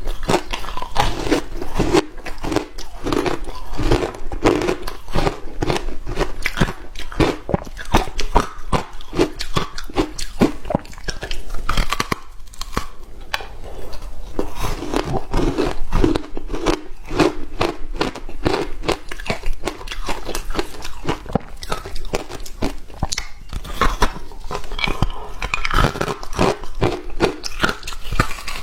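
Hard ice being bitten and chewed at close range: a dense, continuous run of sharp crunches, with a brief pause about twelve seconds in.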